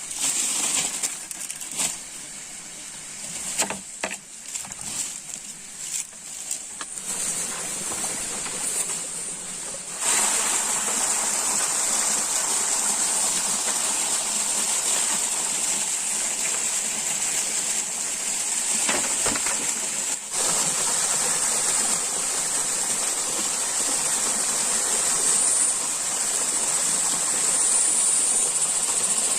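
Irregular rustling and crunching clicks. Then, about a third of the way in, a forest stream's steady rushing water takes over and runs on.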